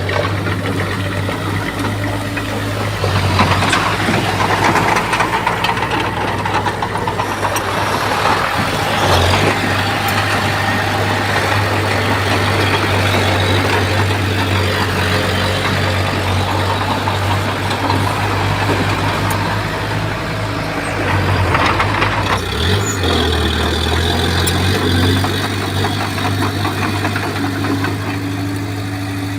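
Bulldozer's diesel engine running with a steady low drone, joined for most of the time by a heavy clattering rush of the machine working. About three-quarters of the way through the clatter drops away and the engine note shifts as the revs change.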